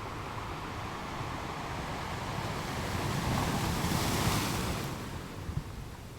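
Sea surf: a wave swells into a loud hissing wash, loudest about four seconds in, then falls away.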